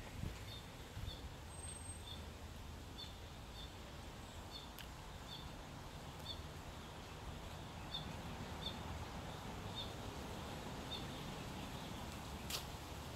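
A small bird repeats short, high chirps about once a second over a steady low background hum of outdoor ambience. A single sharp click comes near the end.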